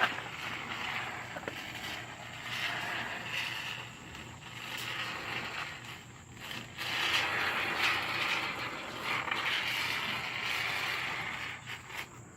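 Aerosol can of Great Stuff expanding foam sealant hissing and sputtering as foam is dispensed from its nozzle, in long stretches with short breaks about four and six and a half seconds in.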